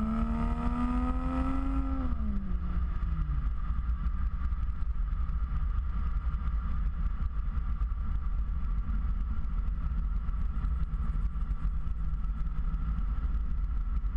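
Ford Fusion Sport's twin-turbo V6 through a Magnaflow axle-back exhaust, accelerating with a rising pitch, easing off after about two seconds, then settling into a steady low rumble at cruise.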